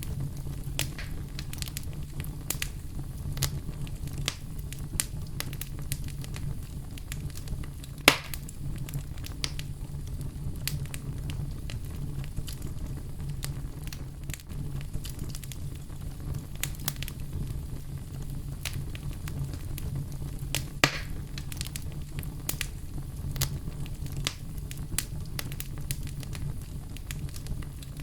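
Campfire burning: a steady low rumble of flames with frequent sharp crackles and pops of burning wood, two louder pops about a third and three quarters of the way through.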